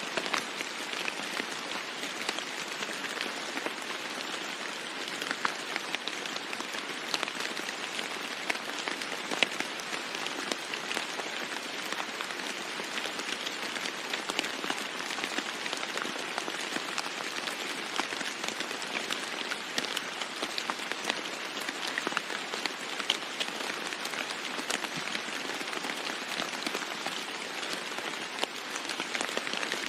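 Steady rain falling on a roof: an even hiss with many individual drops ticking sharply on top.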